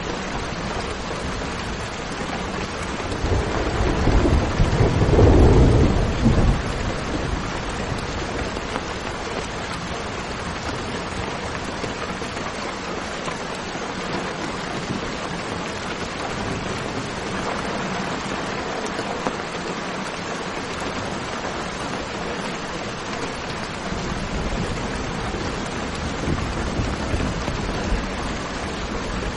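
Steady heavy rain with a deep roll of thunder about three seconds in, lasting around four seconds and the loudest thing here, and a fainter rumble near the end.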